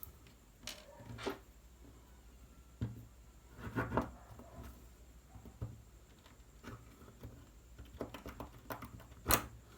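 Scattered small clicks and knocks of the parts of a Traxxas Velineon brushless motor being handled and taken apart by hand, with a cluster of knocks about four seconds in and the sharpest knock near the end.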